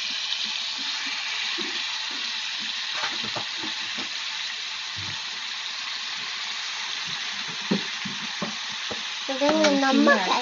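Chicken pieces, just out of the freezer, sizzling steadily as they fry in hot oil in a pan, with the occasional knock of a spatula stirring them. A voice comes in near the end.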